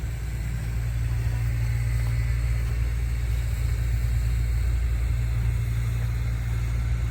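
Steady low rumble of street traffic, with a nearby vehicle engine running evenly.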